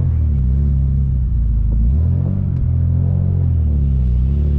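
Turbocharged BMW M50 straight-six in an E36 under way, its engine note dipping and climbing again about three times.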